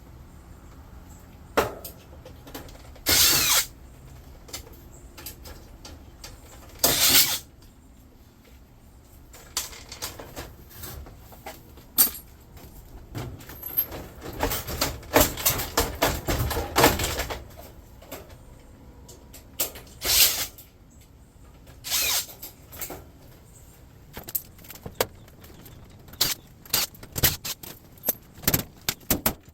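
A handheld power tool, such as a drill or driver, run in several short bursts of about half a second, amid many sharp clinks and knocks of metal scrap being handled.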